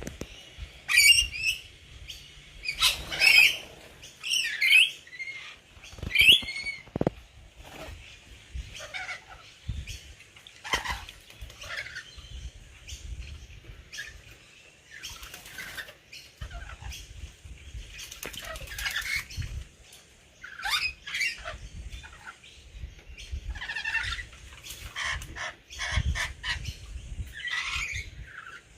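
Rainbow lorikeets bathing in a pot of water, splashing and flapping their wings, with bursts of shrill screeching calls, thickest in the first few seconds and again near the end.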